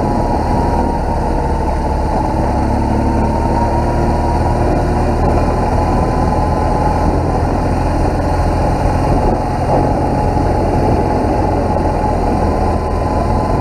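BMW R1200GS boxer-twin engine running steadily under way, a plain tractor-like note, with wind and road noise over it.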